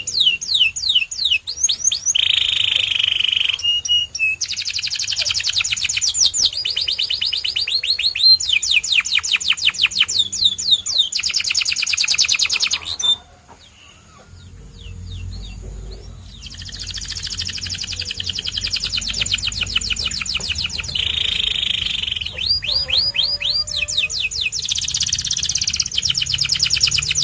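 A white domestic canary singing long, rapid trills of fast repeated notes, one roll after another. It breaks off for a few seconds about halfway through, then starts trilling again.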